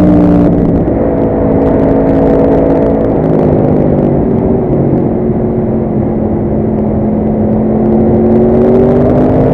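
Yamaha R1 motorcycle's inline-four engine under way at speed. Its note eases down slowly for several seconds, then climbs again near the end as the throttle opens.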